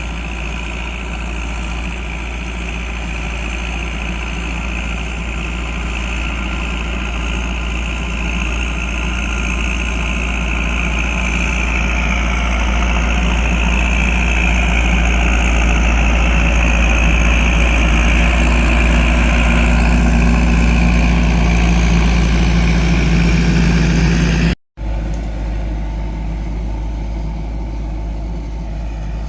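Landini 9080 tractor's diesel engine running steadily while pulling a plough, growing gradually louder. Near the end the sound drops out for an instant, then the engine carries on a little quieter.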